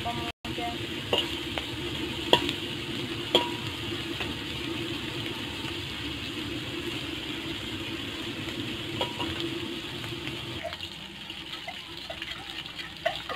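Shrimp frying in oil in a wok, a steady sizzle. A metal spatula clinks against the wok a few times as they are stirred.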